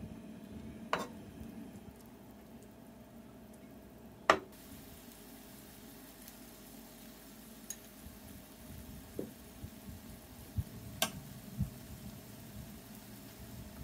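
Grated potato fritters frying faintly in oil in a nonstick pan, with a few light clicks of metal utensils against the pan; the sharpest comes about four seconds in.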